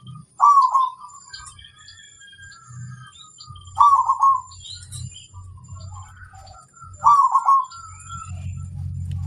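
Zebra dove (perkutut) cooing: three loud phrases of a few quick notes each, about three seconds apart. Faint high chirps sound between them.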